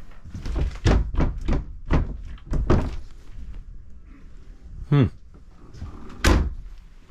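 A run of sharp hollow thunks and knocks in the interior of a fifth-wheel trailer, with a louder single thunk about six seconds in.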